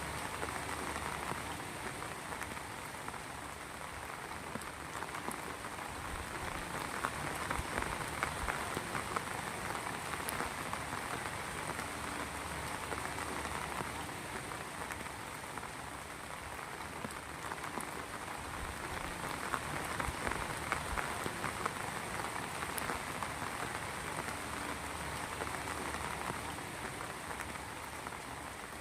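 Heavy rain falling steadily, with dense drop patter that swells and eases gently over several seconds.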